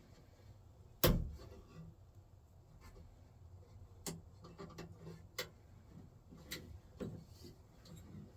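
Clicks and knocks of hand tools and metal parts being handled while a truck door's latch mechanism is worked on: one sharp knock about a second in, then a scattered run of lighter clicks and taps.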